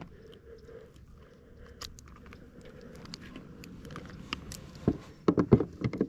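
Scattered light clicks and crackles of handling gear in a small boat, then a cluster of loud knocks near the end.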